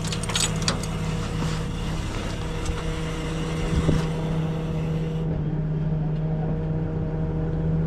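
Tow truck engine idling steadily, with a few light clicks in the first second and a single knock about four seconds in.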